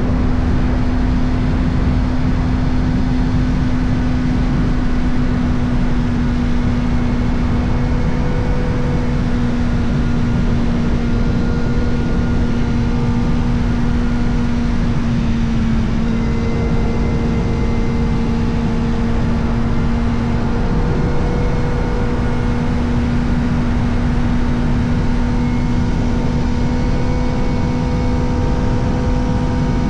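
Kawasaki Ninja ZX-4RR's 399 cc inline-four running through an Arrow Indy Race Evo titanium exhaust with the dB killer fitted, holding a steady high-revving cruise note. The pitch dips briefly about halfway through, then holds. A dense rush of wind noise lies under it.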